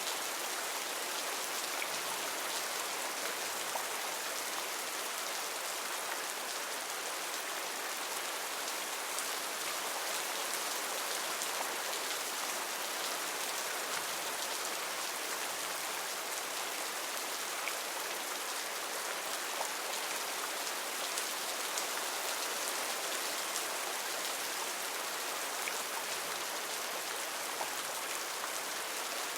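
Heavy rain falling steadily on foliage, an even hiss with many fine drop ticks.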